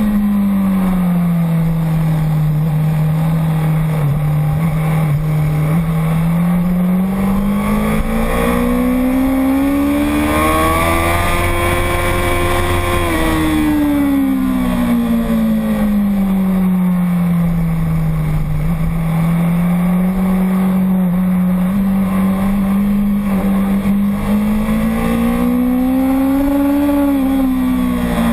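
Motorcycle engine running hard on a race track, its pitch climbing smoothly to a peak near the middle, falling away, then climbing again near the end, over a steady rush of wind.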